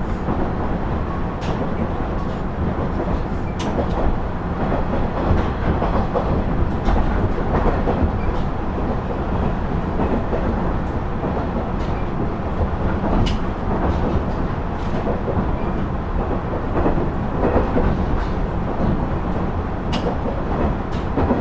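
KiHa 110 series (KiHa 112) diesel railcar running on the line: a steady drone of the diesel engine and wheels on the rails, with scattered sharp clicks from the track.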